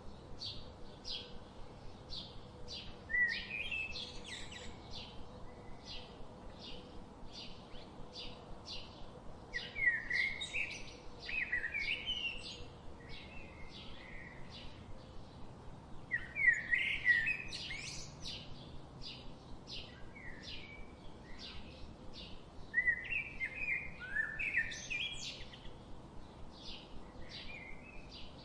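Birds singing: a short high chirp repeats about twice a second, while louder warbling song phrases break in four times.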